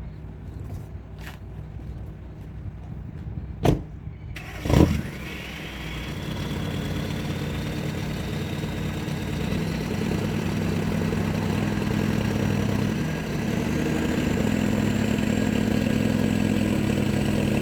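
Mini truck's engine revving and held under load as it pulls on a buckthorn tree, with a whine that climbs slowly in pitch. Two sharp knocks come just before the engine picks up, about four seconds in. The revs rise in steps, ease off briefly near the end, then climb again.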